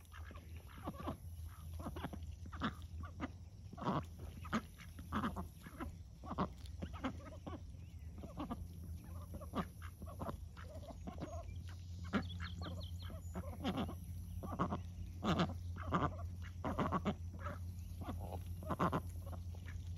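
Domestic ducks and geese calling, a run of many short quacks and honks one after another over a steady low hum.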